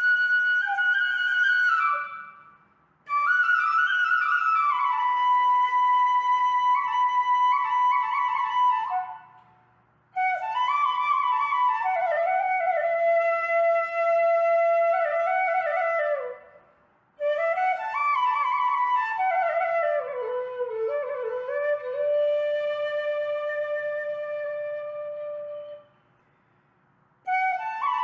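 Solo flute music playing a slow melody of held notes with slides between them, in four phrases separated by brief silences.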